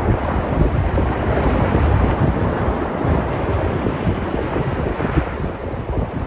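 Sea waves breaking and washing in a continuous rush of surf. The hiss swells briefly about five seconds in. Wind buffets the microphone as a low, fluttering rumble underneath.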